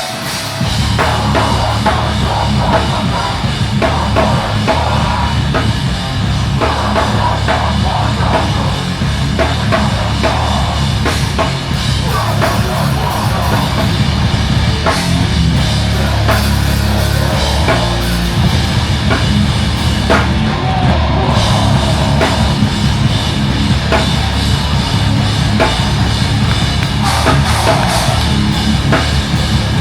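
Loud heavy rock music with a full drum kit pounding steadily throughout.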